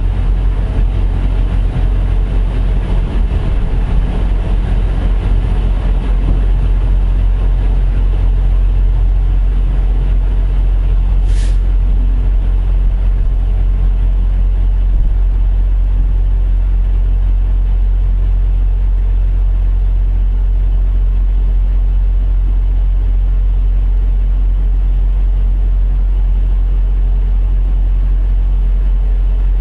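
Semi truck's diesel engine idling steadily, a loud low drone that holds even throughout, with a brief high tick about eleven seconds in.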